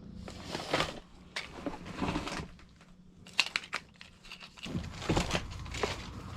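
Handling noises: several bouts of rustling and crinkling, like plastic or packaging being handled, with small sharp clicks. A low steady hum in the background stops a couple of seconds in.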